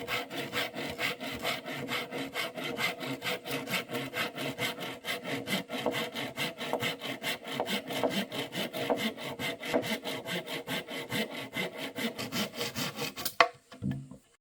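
Hand saw cutting through wood in quick, even strokes, about four a second. The sawing stops with a sharp knock near the end.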